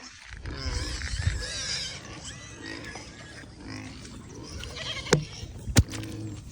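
A farm animal squealing with a wavering pitch for about a second and a half. This is followed by two sharp knocks near the end.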